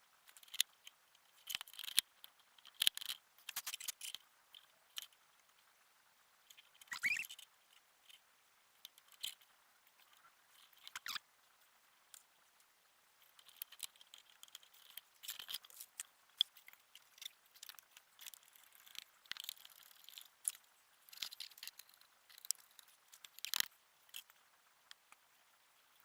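Scattered light clicks, rustles and crunches of objects being handled by hand, with one short rising squeak about seven seconds in.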